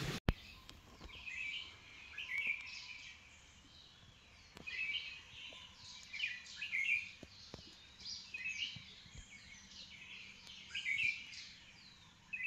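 A songbird singing short phrases of quick chirping notes, repeated every few seconds. A sharp click sounds just at the start.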